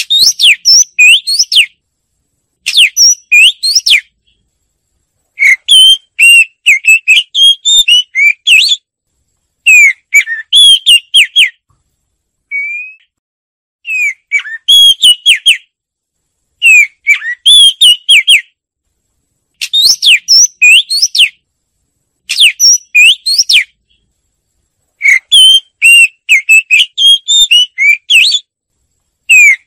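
Oriental magpie-robin singing loudly: repeated phrases of clear, quickly rising and falling whistled notes, each phrase one to three seconds long with short pauses between, and one faint single note about twelve seconds in.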